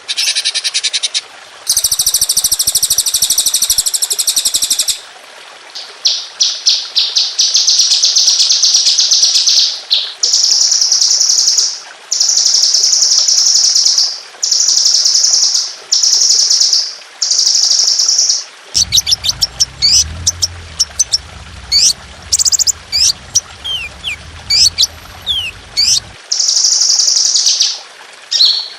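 Songbird song from a masteran training recording: fast, high 'tembakan' trills and rattles, each burst one to two seconds long and repeated about every two seconds. About two-thirds of the way through it changes to a quick series of sharp notes sweeping down in pitch over a low hum, then the trills return near the end.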